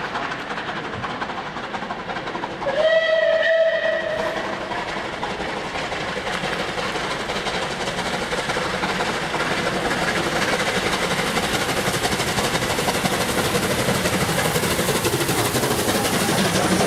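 Steam locomotive working through snow, giving one whistle blast of about a second and a half some three seconds in, over the steady noise of the running train, which grows a little louder in the second half.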